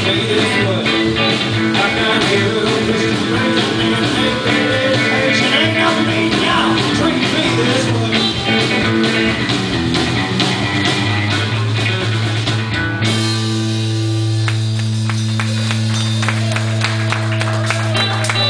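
Live outlaw country band playing the instrumental ending of a song with a steady beat. About 13 seconds in, the band stops on a final chord that is held and rings out.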